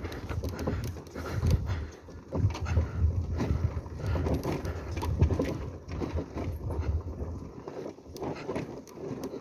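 Motorcycle engine running at low revs over a rough, rocky track, with irregular knocks and rattles from the bike jolting over stones.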